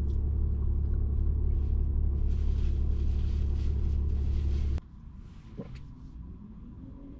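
A vehicle engine running, heard from inside the cab as a steady low rumble. It cuts off abruptly about five seconds in, leaving a much quieter background.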